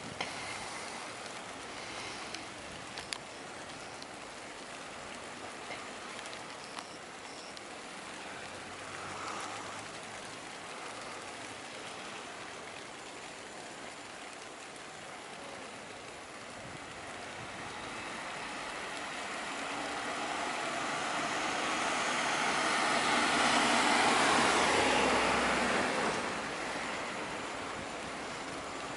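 A train passing over an automatic level crossing: a rushing rail noise builds for several seconds, peaks with a low rumble, then fades away.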